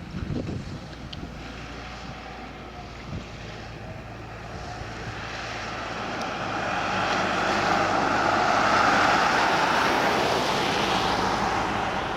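Tractor engine running steadily, with a rushing noise that builds from about halfway through and peaks near the end.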